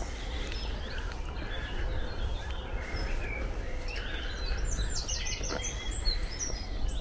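Small birds chirping and trilling in the trees, busiest a few seconds in, over a steady low rumble.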